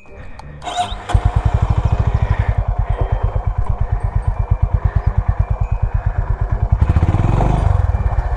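Honda CB350 H'ness single-cylinder engine thumping at low revs close to the microphone, its even exhaust beat starting abruptly about a second in and swelling briefly near the end.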